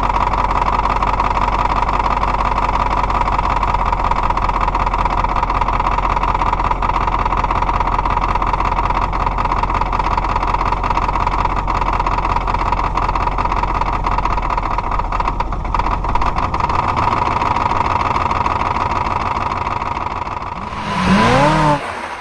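Diesel car engine idling steadily after a cold start. Near the end a short swooshing effect with sweeping tones cuts in over it.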